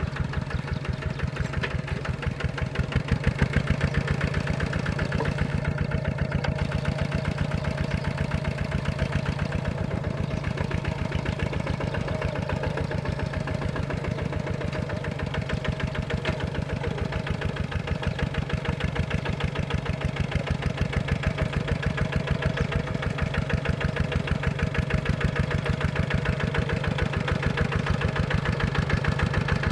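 Tractor diesel engine running steadily, with a rapid, even beat of firing pulses.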